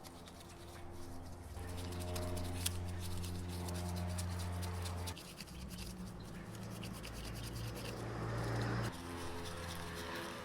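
A detailing brush scrubbing in quick, irregular strokes, over soft background music with long held chords.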